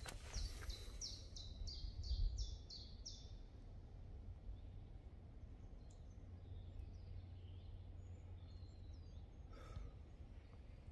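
Songbird singing a run of about nine quick, evenly spaced high notes, each sliding downward, about three a second, then only scattered faint chirps. A steady low rumble lies underneath throughout.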